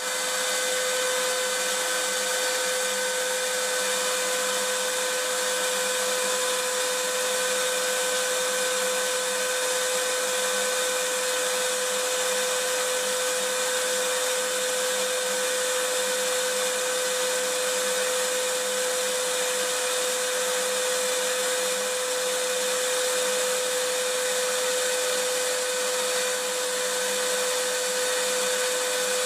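Vacuum cleaner running steadily: an even rush of air with a constant mid-pitched whine over it. It cuts in abruptly out of silence at the start and holds unchanged.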